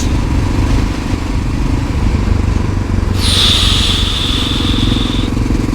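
1988 Honda NX650 Dominator's single-cylinder four-stroke engine running at a steady low note. In the second half a hiss sweeps down and holds for about two seconds, then cuts off suddenly.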